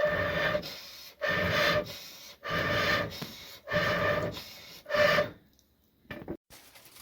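Hand saw cutting through wood in steady back-and-forth strokes, about one every 1.2 seconds, each with a ringing rasp. The sawing stops about five seconds in, followed by a couple of light knocks.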